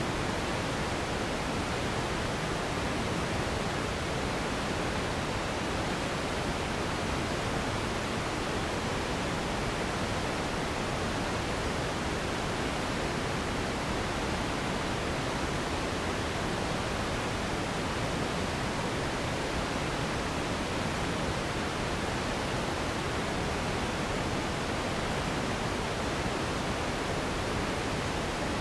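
Steady, unchanging sleep noise: an even hiss with more weight in the lows and mids than in the highs.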